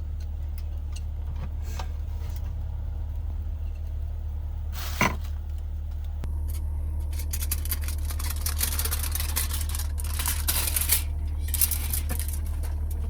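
Frying-pan cooking: scattered clicks and a sharp clack about five seconds in, then dense crackling and scraping from about six seconds on, over a steady low hum.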